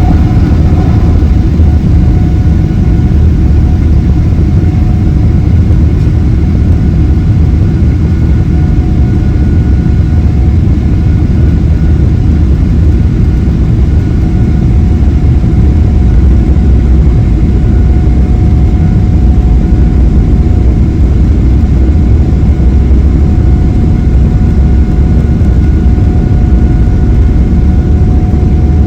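Boeing 777-300ER's GE90-115B turbofan engines at takeoff thrust, heard from inside the cabin: a loud, steady low rumble with a faint high whine from the fans.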